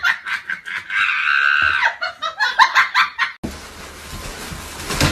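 A person laughing in quick bursts, with a high drawn-out squeal about a second in. About three and a half seconds in, the sound cuts to a noisier clip with a steady hiss.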